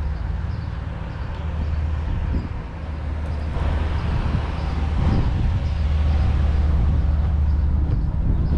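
A vehicle engine running close by with a steady low rumble, growing louder about halfway through.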